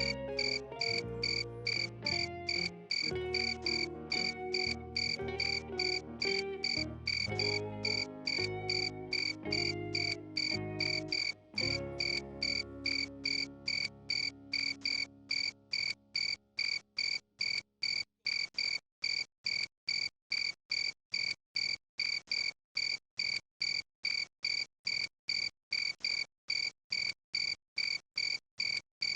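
Cricket chirping in short, evenly spaced pulses, about two and a half a second, with a high tone and its overtones. Melodic background music is under the chirps in the first half and fades away about halfway through.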